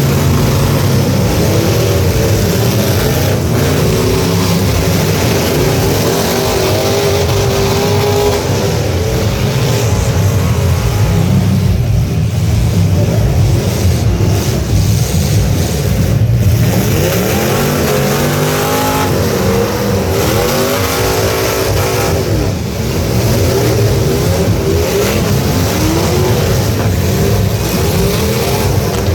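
Several truck engines running loud and revving, their pitch rising and falling again and again, as in a truck demolition derby.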